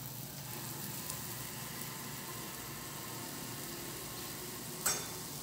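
Bolinhos de chuva batter balls deep-frying in a pot of hot oil: a steady sizzle. A brief sharp sound near the end.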